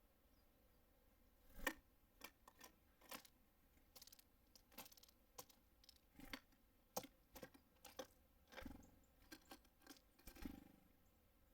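Small birds at a feeder: a quiet run of irregular sharp taps and clicks, the sound of pecking at seed and landing on the feeder, the loudest near the start.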